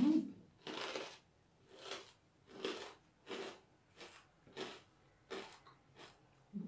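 Mouth-closed chewing of loudly crunchy homemade pork rinds (khaep mu), a crisp crunch about every two-thirds of a second.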